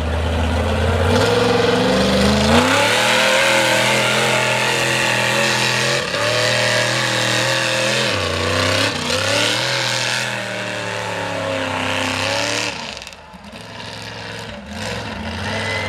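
Mega truck engine revving hard: the revs climb about two seconds in, hold high with a couple of brief dips, then drop away near the end.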